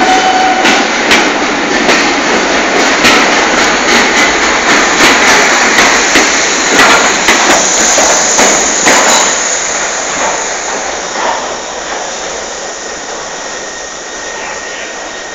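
Heritage train hauled by Metropolitan Railway steam locomotive No. 1, with electric locomotive Sarah Siddons, pulling out of a station: a run of irregular sharp knocks and clanks over a steady rumble for about nine seconds, then the noise fading as the train moves away.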